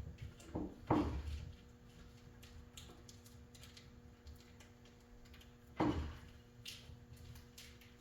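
A few sharp knocks and clunks: two close together about a second in and another near the six-second mark, with faint clicks between, over a steady low hum.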